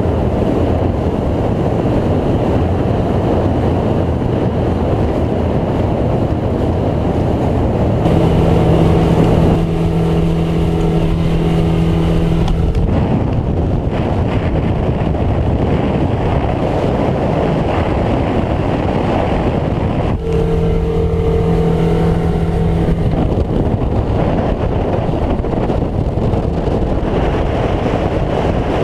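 2016 Sea Pro 228 Bay boat running under power through a chop: a loud, steady rush of wind and water over the engine. A steady hum comes through clearly twice, for a few seconds each time, about a third of the way in and again past the middle.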